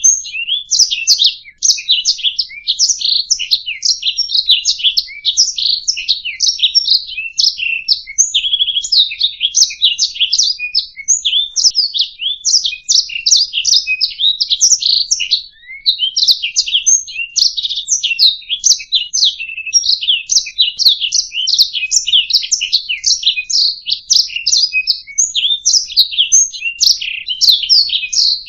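Domestic canary singing a long, fast run of chirps, trills and rolling phrases, almost without pause, with brief breaks about a second and a half in and again about halfway.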